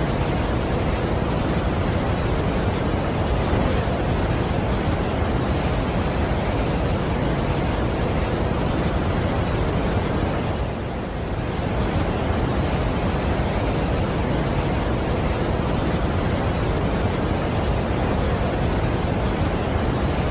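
Steady rush of a large waterfall's falling water, an even, unbroken noise with a brief slight dip in level about halfway through.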